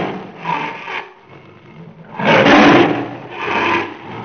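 Tiger roaring: a series of rough roars, the loudest about two seconds in.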